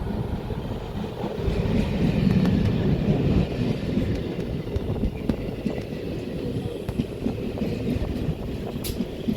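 An Indian Railways express train running at speed, its wheels rumbling and clacking on the track; loudest a couple of seconds in.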